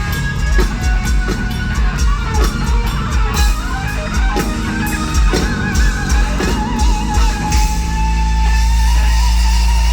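Heavy metal band playing live: a distorted lead electric guitar plays a wavering, bent melody over pounding drums and bass, then settles about eight seconds in onto a long held low chord with a sustained lead note ringing over it.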